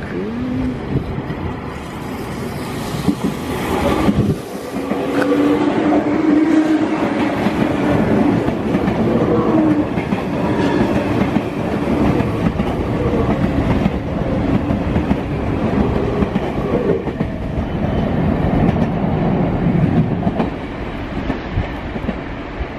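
Sotetsu 9000 series electric train running past at close range: wheels clacking over the rail joints, with a low motor whine that rises and falls in pitch. The sound drops away near the end as the train moves off.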